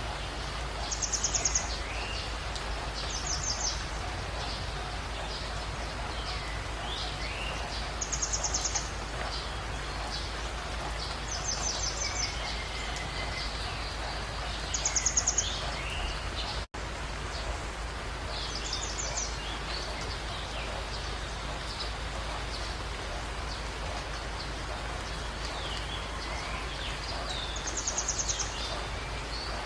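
Jungle birds calling over a steady background hiss. A short, rapid, high-pitched trill comes back every few seconds, with scattered chirps and a lower whistled call in between. Just past the middle the sound breaks off for an instant.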